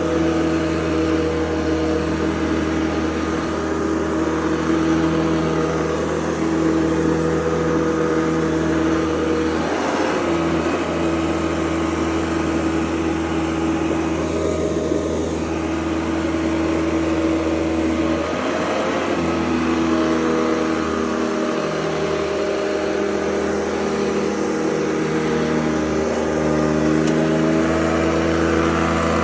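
Hoover Convertible U4101 upright vacuum cleaner running steadily, its motor hum shifting in tone a few times.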